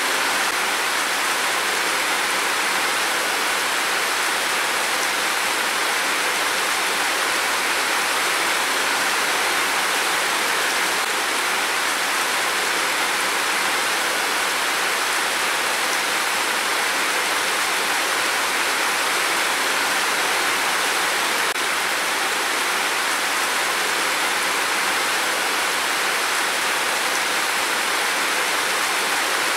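Heavy downpour: a steady, even hiss of rain.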